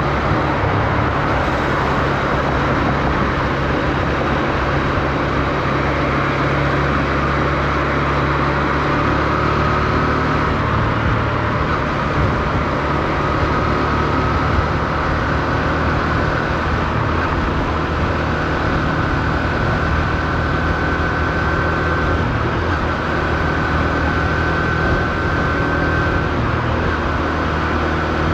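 Honda CB125F's single-cylinder four-stroke engine running at steady, moderate revs on the move, kept low because the new engine is being run in, under wind noise. A faint high whine comes in about ten seconds in and fades out near the end.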